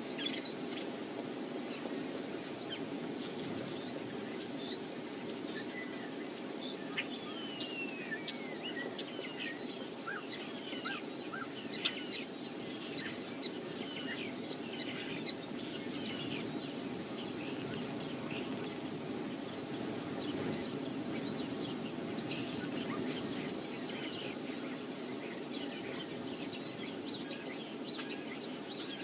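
Wind blowing steadily over the microphone, with many small birds chirping briefly and repeatedly on top.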